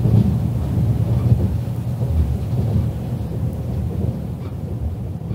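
Running noise inside the cabin of a JNR 485-series electric limited express train: a steady low rumble of wheels on rail, gradually getting quieter. A faint steady whine joins about halfway through.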